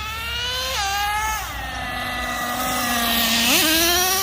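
Traxxas Revo 3.3 nitro engine running under throttle. Its pitch climbs, steps down a little under a second in, settles to a steady lower note, then climbs quickly again about three and a half seconds in.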